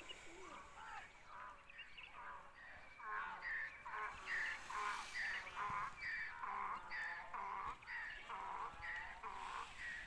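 A bird calling over and over in short notes, about two a second, louder from about three seconds in.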